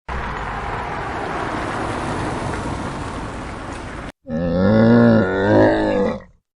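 Two animal sounds cut one after the other: a steady rasping noise for about four seconds, then a low, pitched call lasting about two seconds that bends in pitch.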